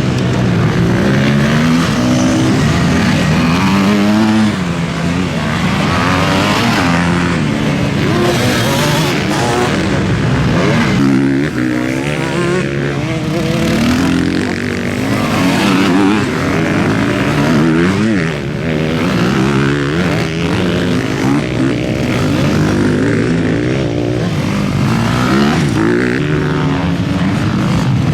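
Several motocross bikes racing together, their engines revving up and falling back again and again, overlapping without a break.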